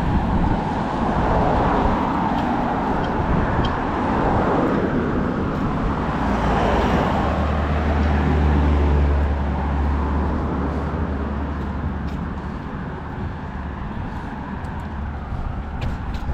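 Road traffic noise: cars running along a street, with one passing about six seconds in and a low engine rumble swelling about eight seconds in and fading a few seconds later.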